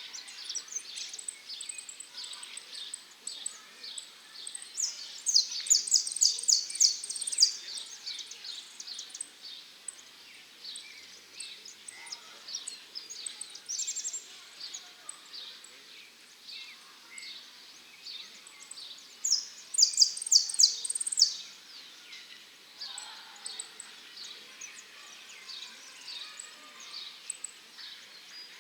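Male saffron finch singing in phrases of quick, high chirping notes over softer chirping. It gives two loud runs of rapid notes, about five seconds in and again about twenty seconds in.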